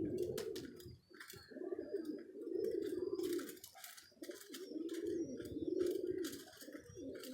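Domestic pigeons cooing, a run of low coos of about a second each following one another, with faint scattered clicks.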